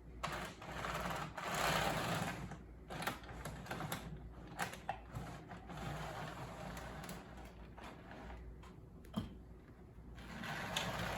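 HO-scale Mantua Mikado 2-8-2 steam locomotive running on the track: a small electric motor whirring steadily, with scattered sharp clicks from the wheels and mechanism.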